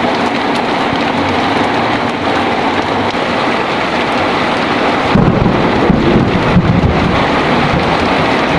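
Heavy rain falling in a steady hiss, with a rumble of thunder breaking in about five seconds in and lasting around two seconds.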